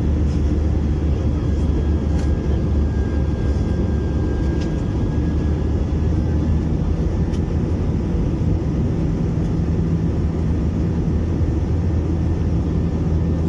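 Steady jet engine and airflow noise heard inside the cabin of an Airbus A321-200, a loud even rumble with a low hum underneath; a second low tone joins about nine seconds in.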